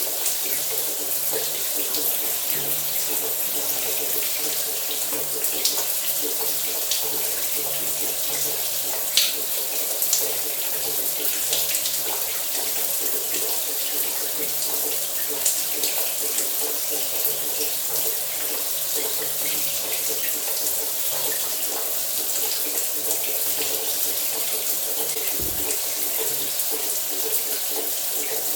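Running shower spray: a steady hiss of water falling, with small irregular splashes.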